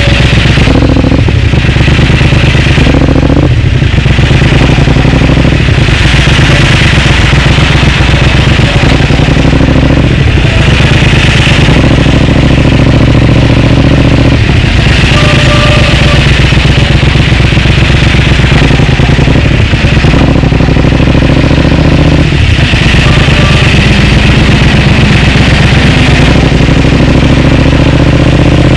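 Triumph Speed Twin's parallel-twin engine running through a Vance & Hines aftermarket exhaust while riding. The engine note climbs, breaks off briefly several times and picks up again, rising once more near the end.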